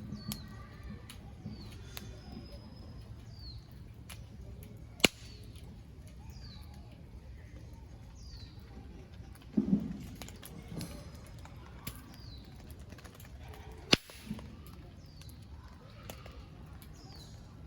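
Wood fire crackling in a small fire stand, with scattered pops and two loud sharp snaps, about 5 and 14 seconds in, and a dull thump near the middle. A bird calls over it again and again with short falling notes.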